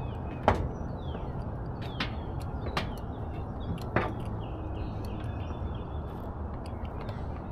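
Canon EOS RP camera shutter clicking four times at uneven intervals, the loudest about half a second in and about four seconds in, over a steady low rumble. Faint falling bird chirps come in between.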